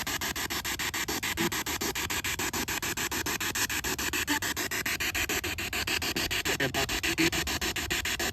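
Spirit box scanning radio frequencies: a steady hiss of static chopped into rapid pulses, about seven a second.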